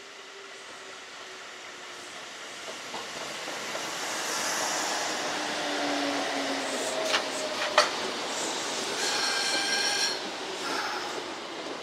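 A Kintetsu electric train running through the station, growing louder as it comes in. A few sharp clicks of wheels over rail joints come about two-thirds of the way through, then a brief high wheel squeal before the sound falls away.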